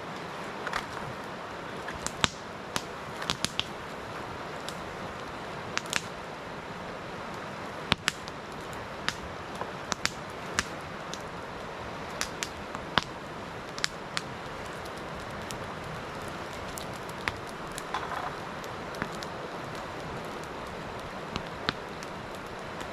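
Wood campfire crackling, with sharp, irregular pops over a steady hiss.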